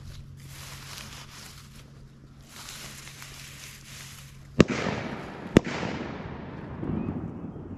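Two shotgun shots about a second apart, each followed by a long echo that fades out over a couple of seconds.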